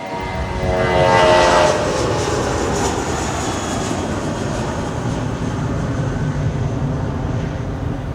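Airbus A319's IAE V2500 turbofan engines at take-off thrust passing close by. It is loudest about a second in, with whining tones that fall in pitch, then becomes a steady rumble as the jet climbs away.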